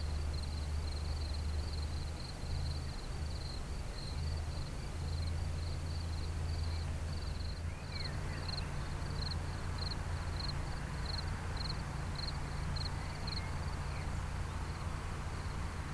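Insect chirping: a high, short chirp repeating evenly a few times a second, over a low steady rumble.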